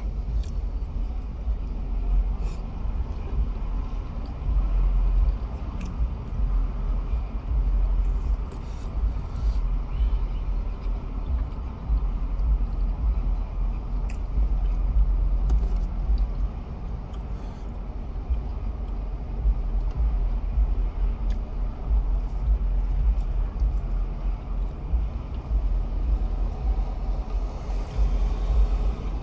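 Steady low rumble heard from inside a parked car with its windows down, rising and falling unevenly, with a few faint small clicks.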